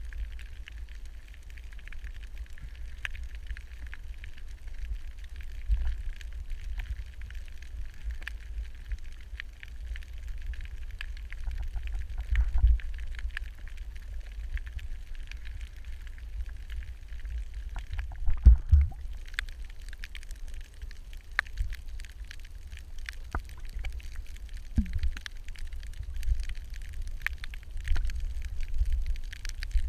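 Underwater sound picked up through a camera housing: a steady low rumble of moving water with a thin, constant crackle of clicks. Louder dull thumps come about midway and again a little after.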